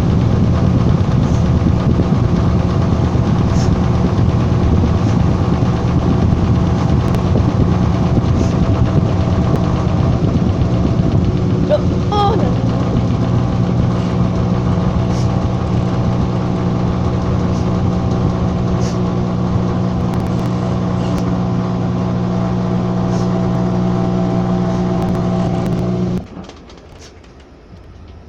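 Washing machine running with a loud, steady motor hum over a rushing noise, which cuts off suddenly near the end.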